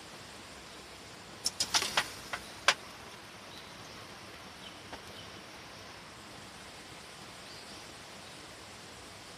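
Steady rain falling as an even hiss, with a quick cluster of sharp clicks and knocks about one and a half to three seconds in.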